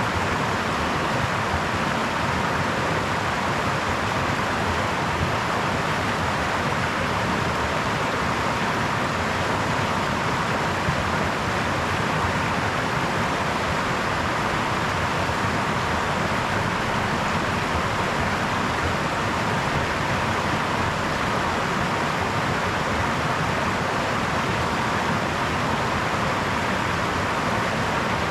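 Brook water flowing, an even, steady rush of running water that does not change.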